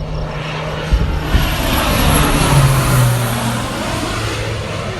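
Crop-dusting airplane flying low overhead, its engine swelling to a peak about halfway through and dropping in pitch as it passes and moves away.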